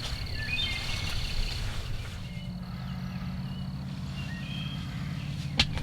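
Outdoor field ambience: scattered faint bird chirps and a high, even insect-like buzz that stops about two seconds in, over a low steady hum. One sharp click near the end.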